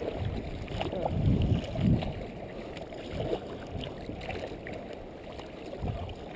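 Water splashing and sloshing around a kayak being paddled at sea, with louder surges about one and two seconds in.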